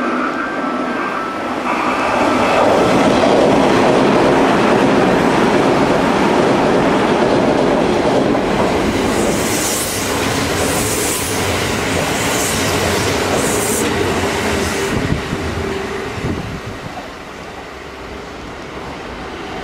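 Electric commuter trains on the Kintetsu Osaka Line passing through a station. A loud rumble of wheels on rail builds about two seconds in, holds, and eases near the end. In the middle comes a run of short hissing bursts about a second apart.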